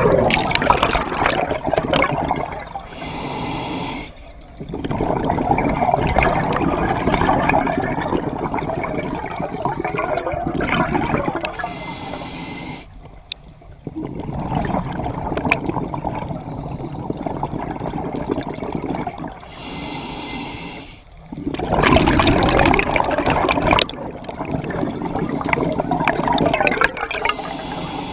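Scuba diver breathing through a regulator underwater. A short hissing inhale comes three times, about every eight to nine seconds, and each is followed by a long, loud rush of bubbling exhaust.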